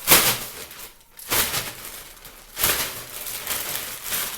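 A bag being crinkled and shaken: three loud rustling bursts about a second and a half apart, with softer rustling in between.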